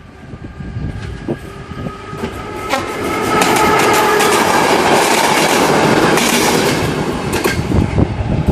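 A departing passenger train hauled by a BDZ class 44 electric locomotive passes close by, growing louder over the first few seconds and then holding loud, its wheels clicking over the rail joints.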